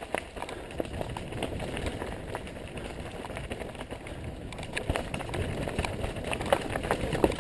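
Mountain bike ridden along a rough dirt trail: steady tyre rolling noise with frequent rattles and knocks from the bike over roots and bumps.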